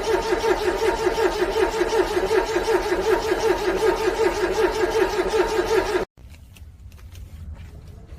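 Car starter motor cranking a cold engine with a fast, even pulsing, for about six seconds, then cutting off suddenly without the engine catching. The engine is struggling to start in freezing cold. A faint low rumble and a few light clicks follow.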